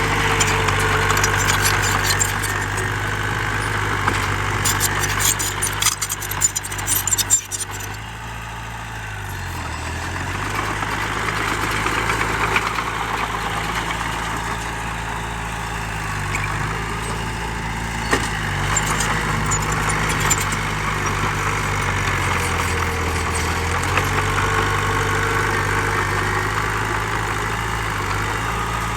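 Heavy diesel engine of earth-moving machinery running steadily, its pitch dipping briefly a few times. A spell of clattering and rattling comes between about four and eight seconds in.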